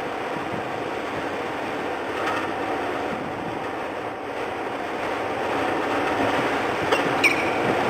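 Strong wind blowing on the microphone, a steady rushing noise. A few sharp clicks come near the end.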